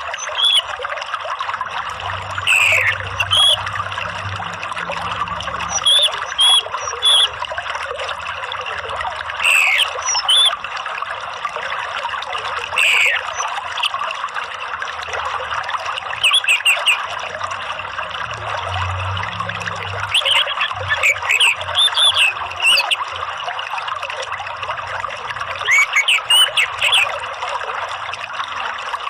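Water trickling steadily, with short bird calls and chirps of an orange-headed thrush (anis merah) every second or two, several sliding down in pitch: a lure recording meant to draw a caged thrush into song.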